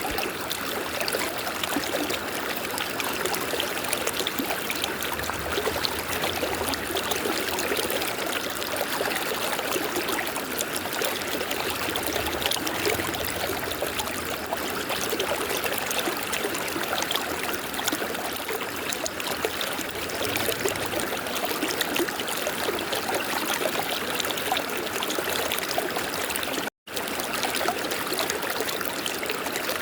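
River water flowing steadily, an even rush of running water. Near the end the sound cuts out completely for a split second, then resumes.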